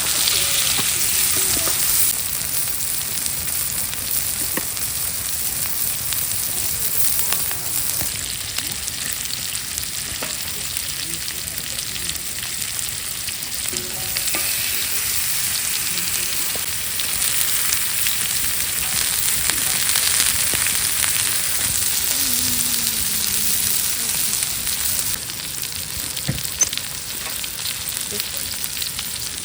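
Food sizzling and spitting in a hot frying pan: a steady sizzle with scattered small pops.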